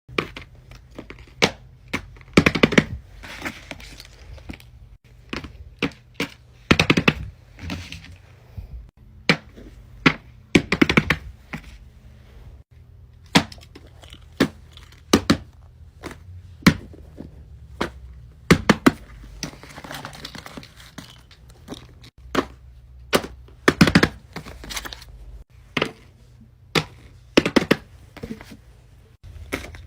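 Small objects being handled by hand close to the microphone: irregular sharp taps, clicks and knocks, with bursts of rustling and crinkling every few seconds.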